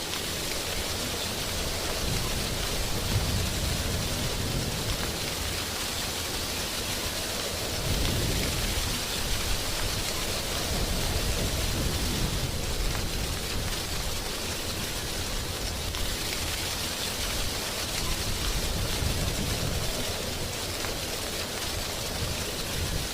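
Wind gusting through tree leaves in a steady rustling hiss, with low rumbling swells as gusts come and go.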